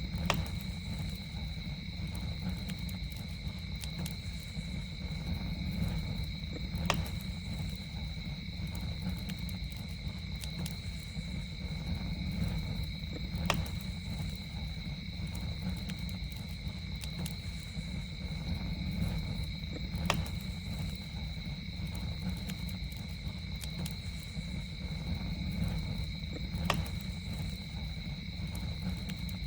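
Campfire burning with a steady low rumble and a sharp crackling pop about every six and a half seconds, over a constant high, two-toned insect drone.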